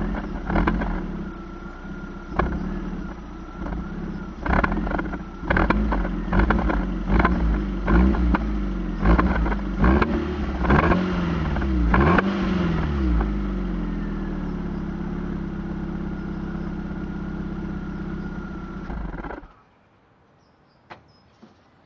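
Fiat Punto 1.2 16-valve engine through an aftermarket Remus exhaust, revved in a series of quick throttle blips. It then settles to a steady idle and cuts off abruptly near the end, leaving only faint clicks.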